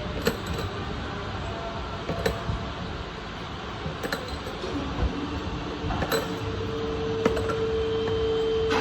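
Metal tools and engine parts clinking at intervals of about one to two seconds over a steady workshop background. A steady hum comes in about halfway and rises to a higher pitch about six seconds in.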